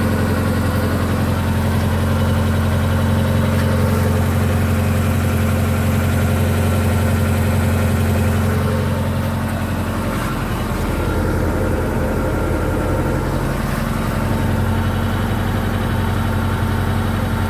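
An engine idling steadily, a low even hum that dips slightly about ten seconds in.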